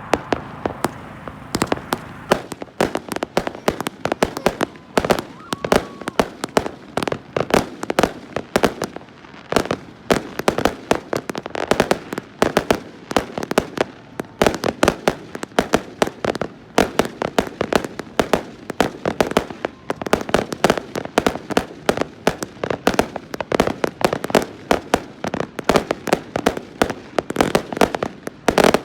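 Fireworks and firecrackers going off in a dense, continuous run of sharp bangs, several a second, starting about a second in.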